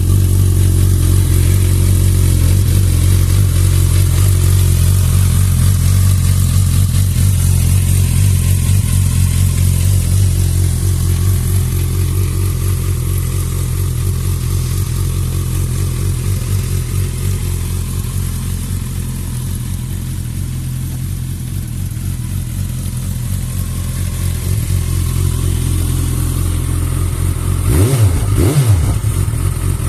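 2008 Suzuki GSX650F's inline-four engine idling steadily, then revved with a couple of quick throttle blips near the end.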